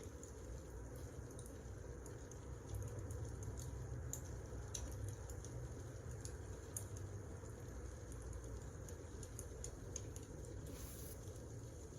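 Wood fire burning in a fireplace: a steady low rumble with irregular small crackles and pops.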